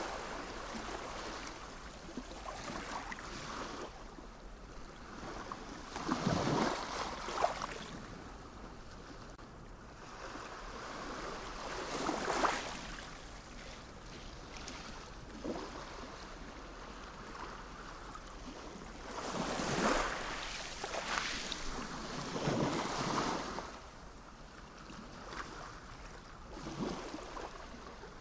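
Sea waves washing onto the shore: a steady rush of surf that swells with a breaking wave every few seconds.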